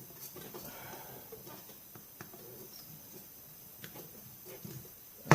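Faint scattered clicks and light scraping of a hand tool prying a rubber boot off a Stihl 029 Super chainsaw, with one sharp loud knock right at the end.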